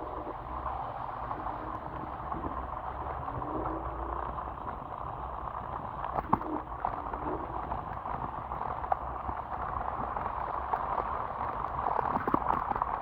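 Electric scooter riding on a wet road: a steady watery hiss of tyres through water over a low rumble, with a few faint clicks.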